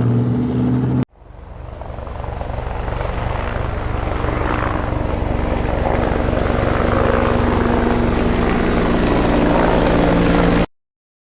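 Helicopter rotor blades chopping fast and evenly, with a thin high turbine whine. The sound fades in after an earlier sound with steady low tones cuts off abruptly about a second in, and it stops abruptly near the end.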